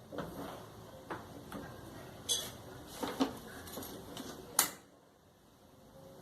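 A series of irregular clicks and knocks from parts and tools being handled during work on a clothes dryer, the loudest knock a little past halfway.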